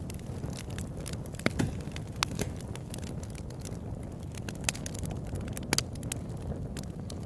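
Campfire burning: a steady low rumble of flames with sharp crackles and pops scattered irregularly, a few louder pops among them, including a quick double pop a little past halfway.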